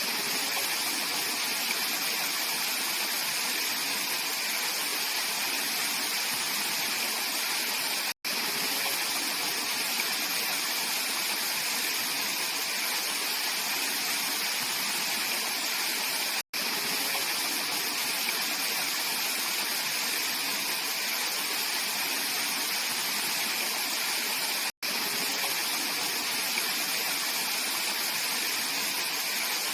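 Mountain valley stream rushing steadily over rocks, a bright, even hiss of water. It cuts out for an instant three times, about every eight seconds.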